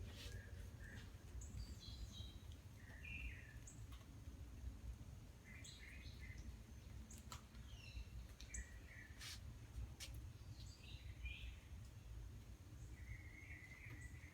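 Small birds chirping and calling now and then, in short high notes and quick falling glides, with a few sharp clicks. Under them runs a faint, steady low rumble of neighbourhood background noise.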